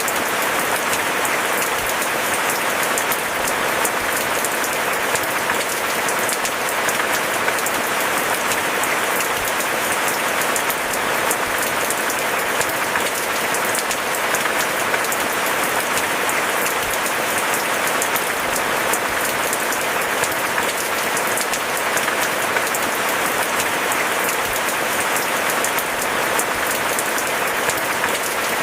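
Steady, heavy rain: a dense, even patter of countless drops that holds without a break.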